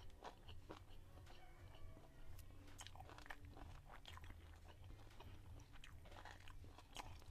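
Faint chewing and mouth sounds of a person eating a mouthful of rice and stir-fried chicken gizzard, picked up close by a clip-on microphone, as many small irregular clicks.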